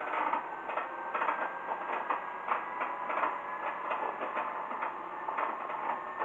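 Heisei Chikuho Railway diesel railcar running along the line: an irregular rattle of clicks and knocks over a steady rumble of running noise, with faint steady high whining tones through it.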